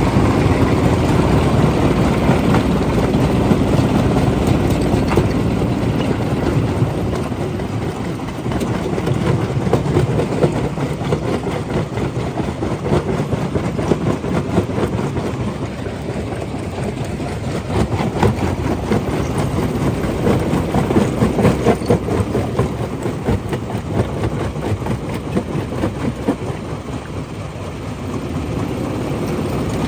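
Rock crushing machine running, a continuous heavy mechanical noise with a dense clatter of stone knocking, the level swelling and easing every few seconds.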